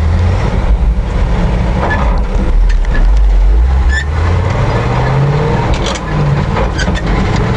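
1979 Chevrolet C70 dump truck's 427 big-block gasoline V8 with a four-barrel carburettor, run hard under acceleration. The engine note climbs in pitch, drops back and climbs again several times as it is shifted up through the gears.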